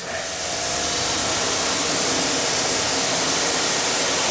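Pressure washer spraying a steady jet of water over a car's paintwork during the rinse, a continuous hiss that starts suddenly.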